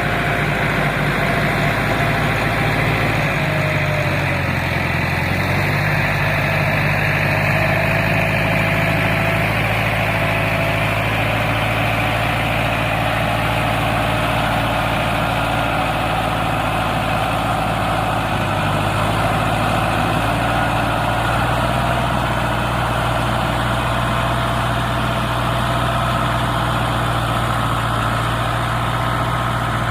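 Four-wheel tractor engine running steadily while hauling a load of farm produce, its low note shifting slightly a few seconds in and again about two-thirds of the way through.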